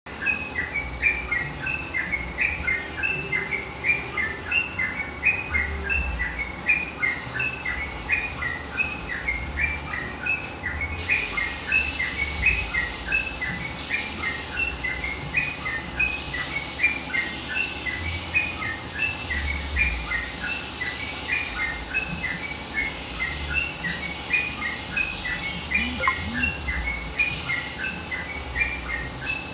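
Yellow-vented bulbul (trucuk) singing: a continuous run of short, bright chirping notes, several a second.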